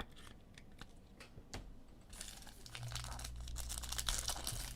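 A few light clicks of cards being handled, then, about two seconds in, a trading-card pack wrapper being torn open and crinkled.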